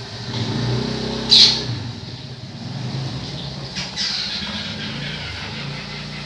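A bird squawking: one loud harsh call about a second in, then two shorter calls about four seconds in, over a low steady drone.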